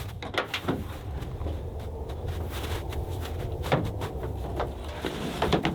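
A steady low rumble with several sharp knocks and clicks over it.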